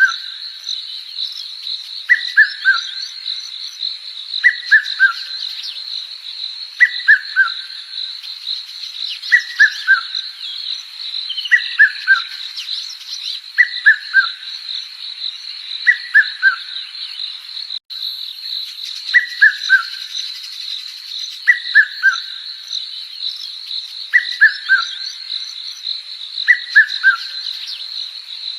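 A short whistled call of three quick notes, each falling in pitch, repeated about every two and a half seconds, over a steady high-pitched insect drone. The calls drop out for a moment about eighteen seconds in.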